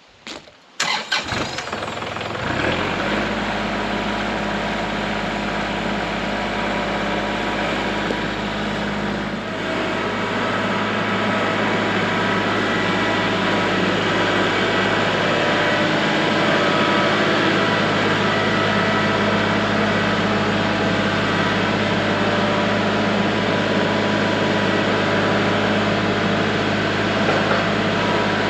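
An engine starts about two seconds in, then runs steadily at idle.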